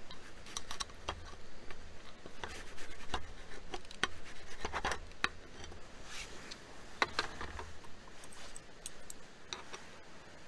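Handling sounds: irregular small clicks, taps and scrapes of objects being moved and worked by hand, with a faint low rumble underneath.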